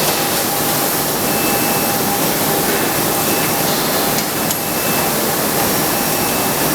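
Loud, steady rushing noise of industrial machinery running, with a faint steady hum-like tone under it and a brief tick about four and a half seconds in.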